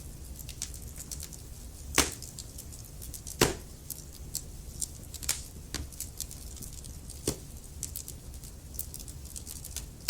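Wood fire of burning logs in a fireplace crackling: a steady low rumble of flames with irregular sharp pops and snaps, the loudest two about two and three and a half seconds in.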